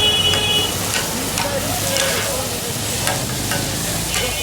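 Chicken chaap frying in hot oil in a street-stall pan, with a steady sizzle and several sharp metal knocks and scrapes from the cook's spatula.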